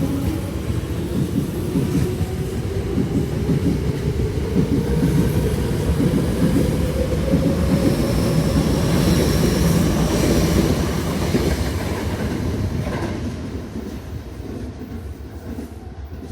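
Tobu Tojo Line electric train pulling out of the station and accelerating: the traction motor whine rises steadily in pitch over a heavy rumble and wheel clatter on the rail joints, then the sound fades away near the end.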